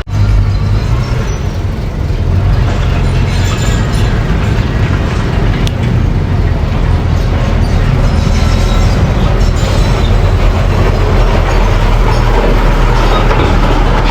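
Mini bulldozer's diesel engine running steadily under load, with mechanical clatter over the engine note.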